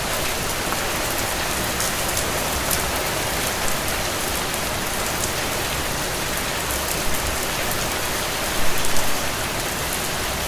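Steady rain falling on a window: an even hiss of rain with scattered sharper drop taps, and a brief louder cluster of drops near the end.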